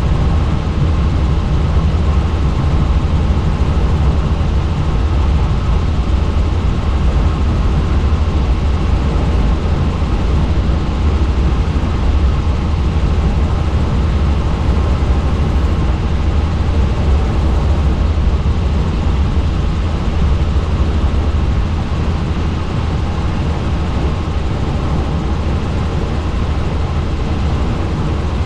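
Helicopter in flight: a steady, loud drone of rotor and engine, heaviest in the low bass, with no change in pitch.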